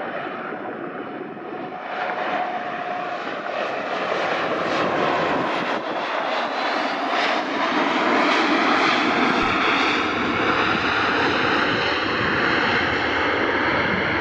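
Jet noise from an Embraer E175LR's twin GE CF34 turbofans. It is a steady roar that grows louder through the first half and holds, with a faint high whine that slowly rises in pitch.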